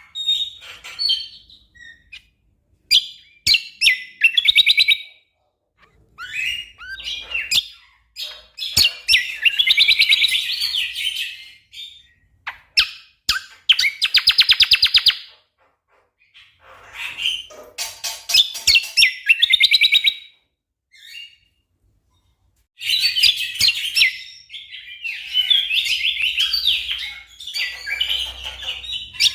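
Cucak kombo (kecial kombo) songbird singing in loud bursts of rapid-fire chattering trills and sharp single notes, separated by short pauses. This is the dense 'tembakan rapat' song that birdkeepers use as training material for competition songbirds.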